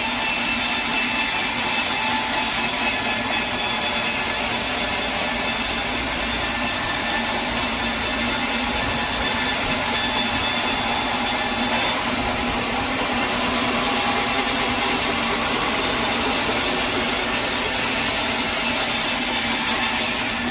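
Sawmill blade cutting lengthwise through a log: a steady sawing noise with a high, ringing whine. The high end dips briefly about twelve seconds in.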